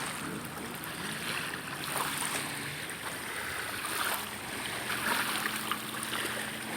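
Faint, steady hum of a distant boat motor over water lapping and a light breeze.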